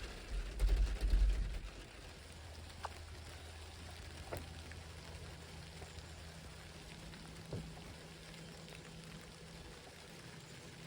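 Rain falling steadily, with scattered single drops ticking, and a few heavy low thumps in the first two seconds.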